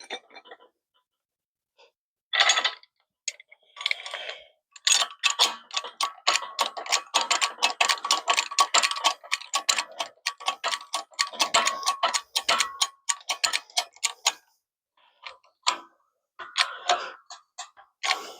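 Ratchet wrench clicking in rapid runs of strokes as it drives a press tool, pushing a U-joint bearing cap back through the driveshaft yoke; a couple of metal clanks come first.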